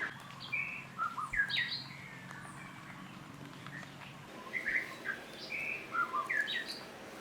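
Short, high-pitched chirping calls in two bursts of several quick notes each, the second burst starting about halfway through.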